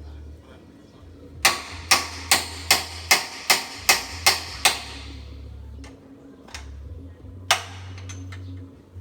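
Hammer blows on walking-tractor parts under repair: a quick run of about nine sharp strikes, roughly three a second, then a single further blow a few seconds later.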